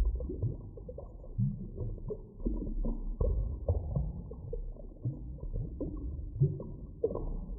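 Underwater-style deep water ambience: a low, muffled rumble with frequent short knocks and brief sweeping tones.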